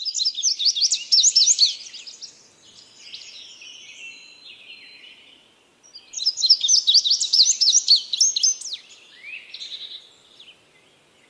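Songbird singing in rapid, twittering phrases: two loud bursts about six seconds apart, with softer, scattered calls between them.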